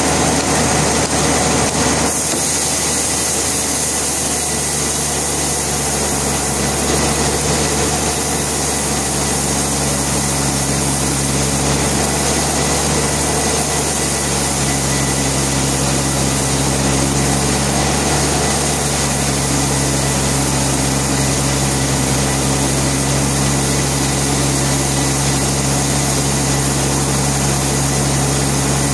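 Sawmill machinery running steadily, an engine-driven saw with a constant low hum and a high hiss.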